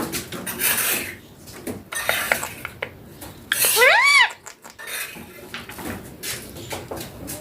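A young Indian ringneck parakeet gives one call that rises and then falls in pitch, about halfway through, amid scratchy rubbing and light clinking sounds.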